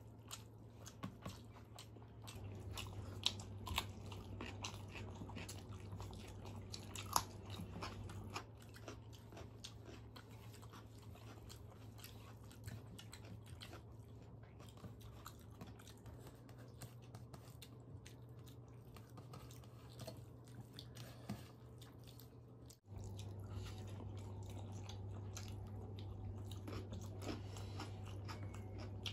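Chewing and crunching as two people eat rice with crisp fried potato and eggplant fritters by hand, with small clicks of fingers on steel plates. A steady low hum runs underneath.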